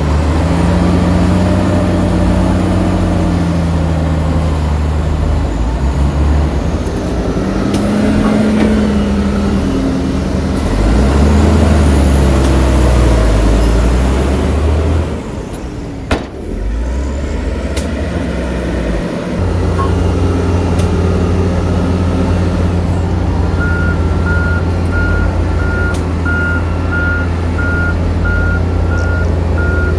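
Heavy diesel engine of earthmoving machinery working, its pitch rising and falling as it is throttled up and down under load, then settling to a steady run. About two-thirds of the way in, a reversing alarm starts beeping steadily.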